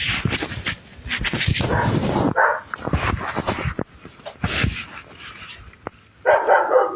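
A dog whimpering and barking amid rustling, clattering movement noise, with louder, pitched yelps from about six seconds in.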